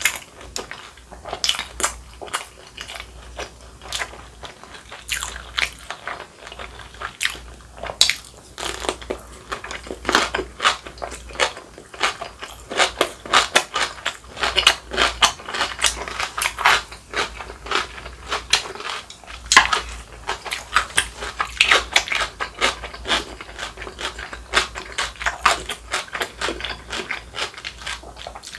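A person biting and chewing crunchy food, stuffed cucumber kimchi, in a rapid run of crisp crunches that grows denser from about ten seconds in.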